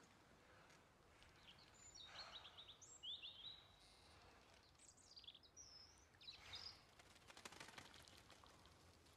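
Faint birdsong: a few short chirps and quick rising and falling whistles, scattered through the middle of the stretch, over quiet outdoor background.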